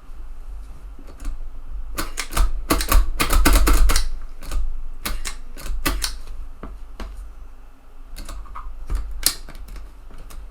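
Irregular clicking and clacking of a TEAC FD-235F floppy drive's eject mechanism and carriage being worked by hand. The clicks bunch up into a rapid flurry about two to four seconds in, with scattered single clicks later.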